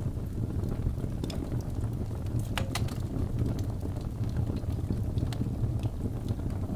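Wood logs burning in a fireplace: a steady low rumble of the flames with scattered sharp crackles and pops, the loudest a pair of snaps about two and a half to three seconds in.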